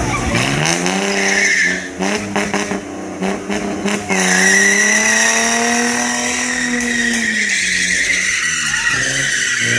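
Car engine revved hard with tires squealing. The revs climb, stutter for a couple of seconds, are held high, then drop near the end.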